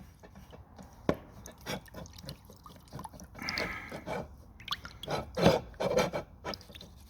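Rusty engine pulleys being lifted out of a liquid soak, dripping and splashing, with irregular metal clinks and knocks as they are handled.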